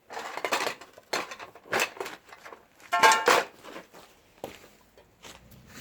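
Dishes and utensils being handled: a series of clattering knocks and scrapes, with the loudest a brief ringing clink about three seconds in.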